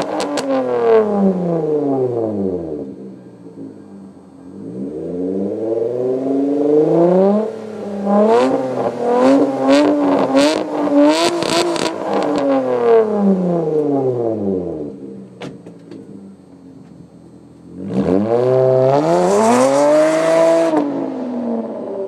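2003 Hyundai Tiburon GT's 2.7-litre V6 exhaust revving three times, each rev rising and then falling away. The exhaust rasps at the top of the revs, with sharp crackles while held high in the middle rev.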